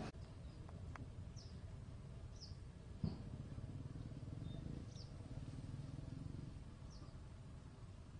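A bird calling with short, high single chirps every second or two, over a steady low outdoor rumble. A sharp knock about three seconds in.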